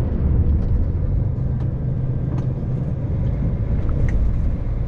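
Steady low engine and road rumble heard from inside a moving vehicle, with a few faint ticks.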